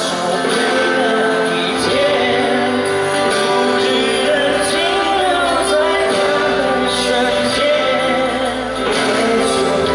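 Live pop-rock band music played at a steady loudness, with singing over it.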